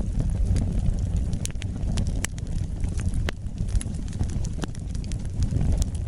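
Wood fire burning: irregular sharp crackles and pops from the burning wood over a low, steady rumble of flames.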